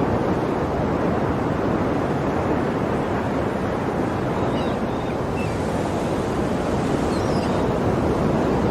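Steady wash of ocean surf, breaking waves blending into a continuous roar, with a few faint high chirps about halfway through.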